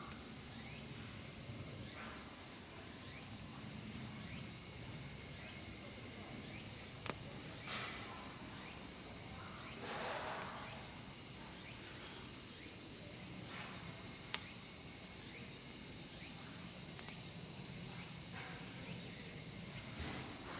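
Steady, high-pitched chorus of summer insects chirring without a break, with a few faint clicks.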